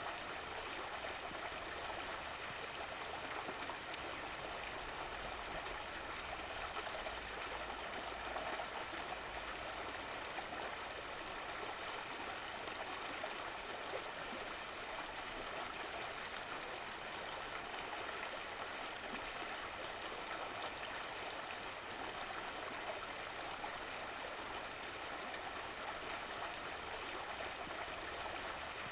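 Stream water running and burbling steadily, a continuous even rush with small trickles.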